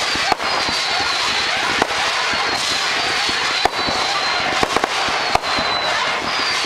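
Fireworks barrage going off: a dense crackling hiss with sharp pops every second or two, and repeated short whistles that fall in pitch.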